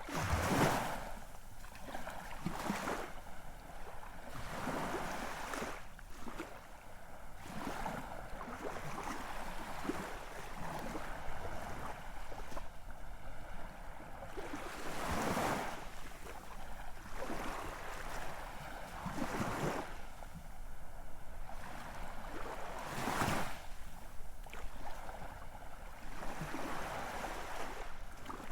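Ocean waves washing on a shore, a steady hiss of surf that swells into louder breaking waves every few seconds, the loudest about half a second in.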